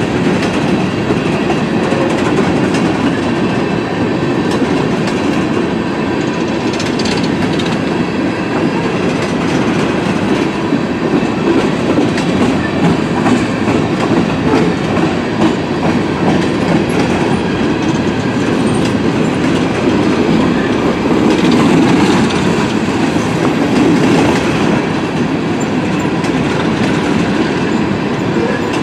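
Train cars rolling past steadily, steel wheels clattering on the rails in a continuous rumble with no break.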